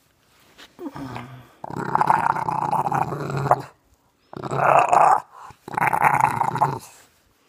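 Bulldog puppy growling and grumbling in three long stretches, the first and longest about two seconds, a demand for its breakfast.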